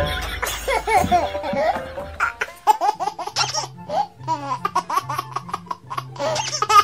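High-pitched giggling laughter, quick and repeated, over background music with a bouncing bass line.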